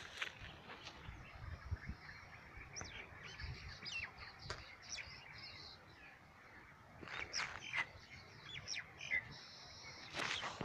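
Birds chirping and calling: many short, high chirps and quick sweeping notes, busiest about seven seconds in and again near the end, over a faint low rumble.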